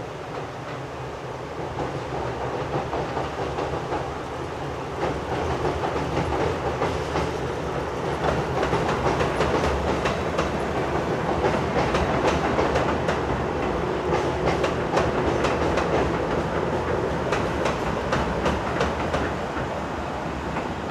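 A train running past, its wheels clattering over the rail joints in a dense run of clicks over a rumble, growing louder about five seconds in and staying loud.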